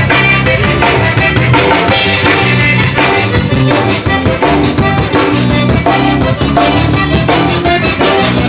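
Live zydeco band playing an upbeat tune with a steady drum-kit beat.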